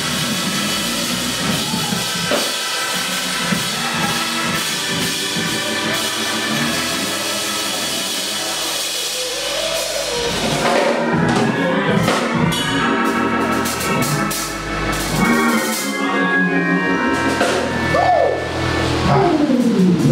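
Live church band music led by a drum kit, playing steadily and growing louder and fuller about ten seconds in.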